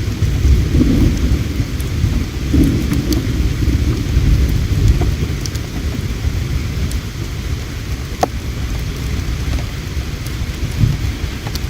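Campfire crackling, with a few scattered sharp pops, over a steady low rushing rumble of flowing river water.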